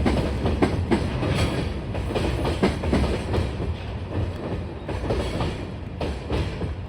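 Freight train running past, its wagon wheels clattering over the rail joints in irregular clicks above a steady rumble, gradually getting quieter.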